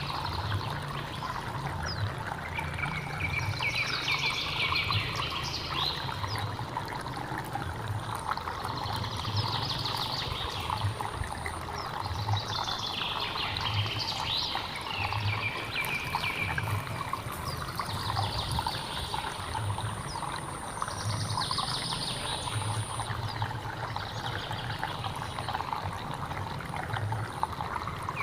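Stream water trickling and running steadily, with a bird repeating a short song phrase every two to three seconds, and a thin, steady high tone through the middle part.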